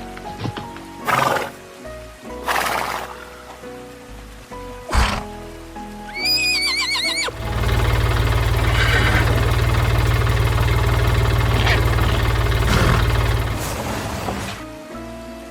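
Cartoon background music with sound effects: a few short whooshes, then a horse whinny, followed by a steady low rumble that lasts several seconds.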